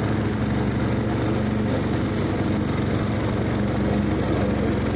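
1997 MasterCraft 12.5-38 riding mower's Briggs & Stratton engine running steadily under throttle as the tractor is driven.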